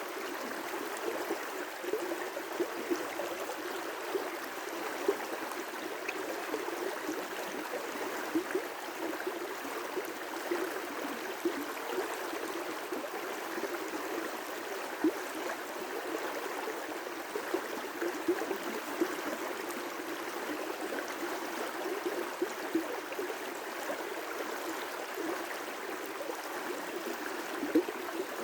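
River rapids: water rushing steadily over rocks, with small splashes and gurgles breaking through now and then.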